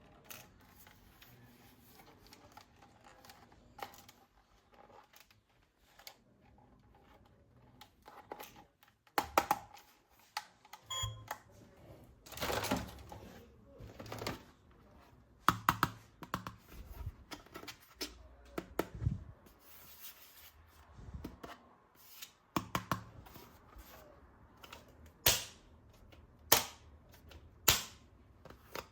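Hard plastic toy gun parts being handled and clicked together: irregular sharp clicks and knocks with some rustling. They are sparse and faint at first and come louder and more often from about nine seconds in.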